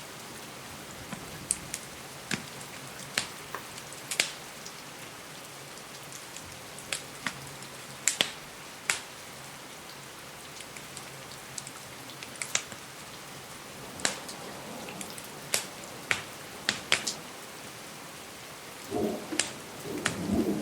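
Steady rain with sharp, irregular pops and snaps of a wood fire crackling, about one a second. A low rumble of thunder begins near the end.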